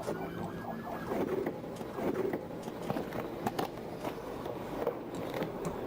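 Police-footage street ambience: vehicle and traffic noise with scattered clicks and knocks, and a siren's rising tone fading out about a second in.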